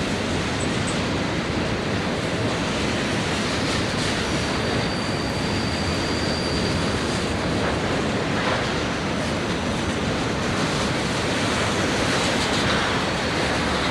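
Train rolling past with a steady, even rumble of wheels on rail, and a thin high wheel squeal from about four and a half seconds in that fades out about two seconds later.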